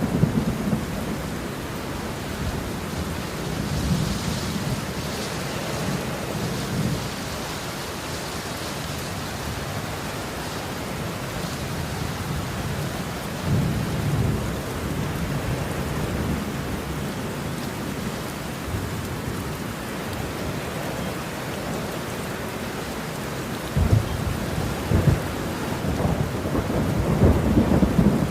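Steady rain falling, with rolling thunder rumbling low several times. A sharper thunderclap comes a few seconds before the end, and the rumbling builds again after it.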